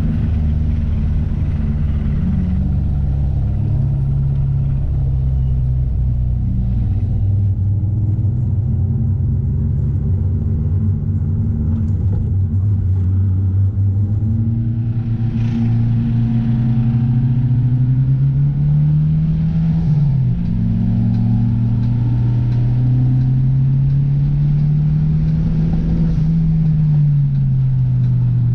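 Car engine pulling along a road: the revs hold steady, then climb, drop abruptly at a gear change about twenty seconds in, climb again, and fall away near the end.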